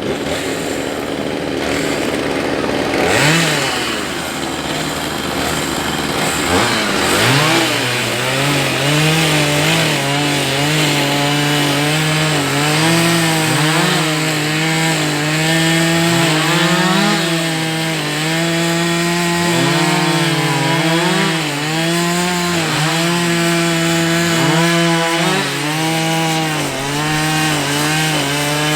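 Two-stroke chainsaw running and cutting wood. The engine pitch dips and recovers again and again as the saw loads up in the cut and is eased back.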